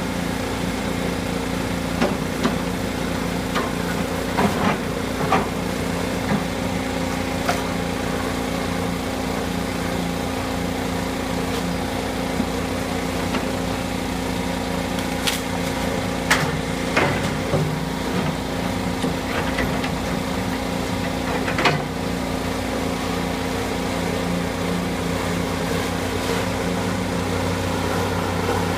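Heavy demolition machinery running steadily with a constant engine hum, while sharp knocks and clanks of debris being broken and moved come every few seconds.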